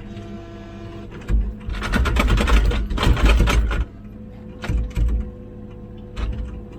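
Komatsu PC16 mini excavator running, its engine and hydraulics giving a steady hum with a whine. About a second in, the bucket scrapes and crunches through rocky ground for a couple of seconds, followed by a few shorter knocks.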